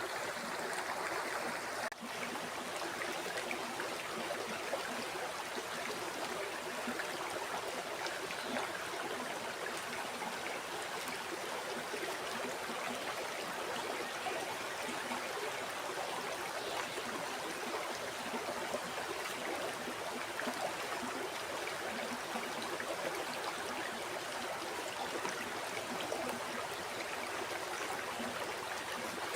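River water flowing and babbling steadily over stones, with a brief dip in level about two seconds in.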